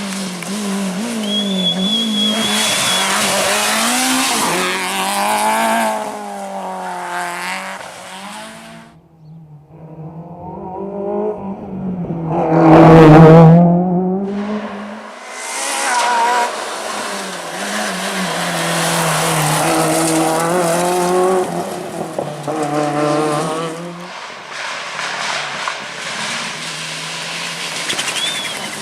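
Rally cars at full throttle on a closed stage, engines revving up and dropping back with each gear change, with a short tyre squeal about two seconds in. One car passes close by near the middle, the loudest moment.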